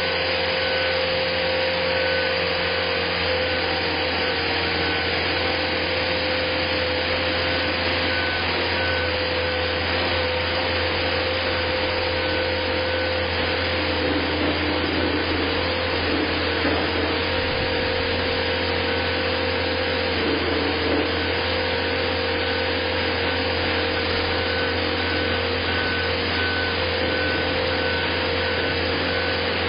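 Steady machine drone with a low hum and a faint repeating high tone, unchanging throughout.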